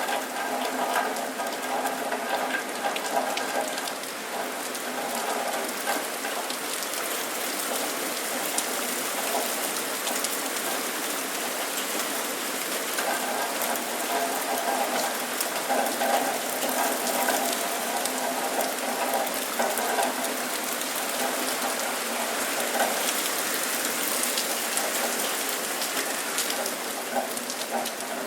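Steady rain falling, a dense hiss with many separate drops ticking through it.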